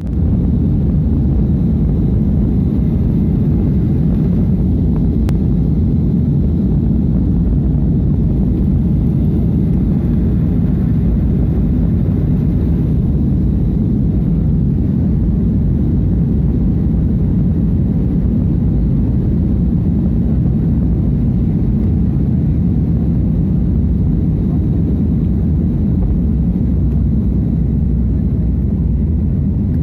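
Jet airliner's engines running at takeoff power: a loud, steady low rumble that hardly changes.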